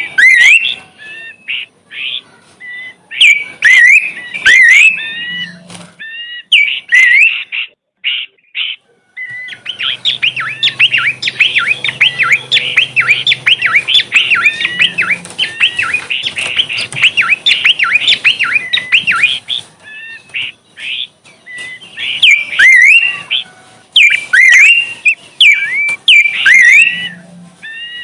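Small bush bird chirping: quick, sharp repeated calls in bursts. In the middle comes a long run of rapid, dense chattering.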